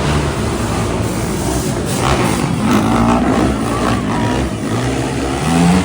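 Monster truck engines running loudly, a deep rumble with the engine note rising as they rev about two to three seconds in and again near the end.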